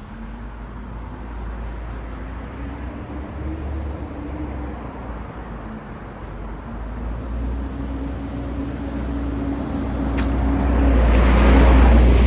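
City road traffic at night: a steady low rumble with an engine hum. A vehicle draws closer and passes near the end, its tyre and engine noise swelling to a peak and then easing.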